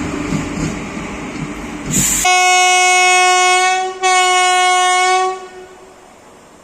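Rumbling train noise, then an Indian Railways locomotive horn sounding two long blasts on one steady note, split by a brief break.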